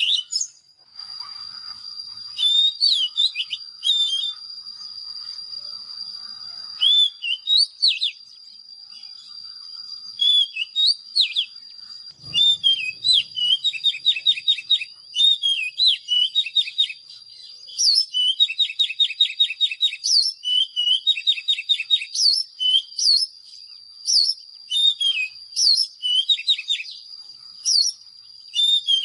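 Oriental magpie-robin singing: clear whistled phrases that slur up and down, alternating with fast rattling trills of repeated notes, in short bursts with brief gaps. A steady thin high tone runs underneath from about a second in.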